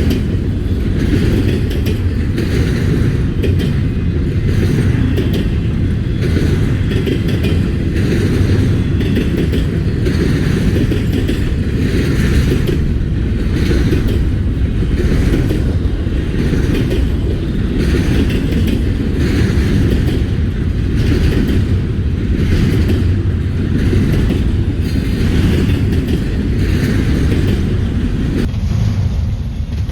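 Double-stack container train rolling past: a steady heavy rumble of the railcars, with wheels clacking over rail joints about once a second. The sound changes abruptly near the end.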